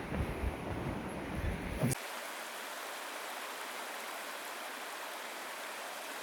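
Wind buffeting the microphone for about two seconds. It cuts off abruptly to a steady, even hiss with no low rumble.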